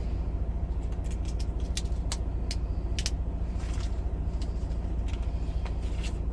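Steady low rumble of an idling semi-truck diesel engine, with a quick run of sharp clicks and rattles about two to three seconds in.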